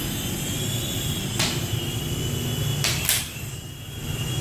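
Small electric motor of a remote-control toy plane running with a steady high-pitched whine, with two sharp knocks, about a second and a half and three seconds in.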